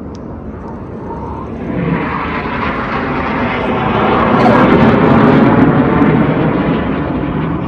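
Jet engines of a formation of BAE Hawk jets flying past, the roar building over about four seconds to a loud peak and then easing slightly.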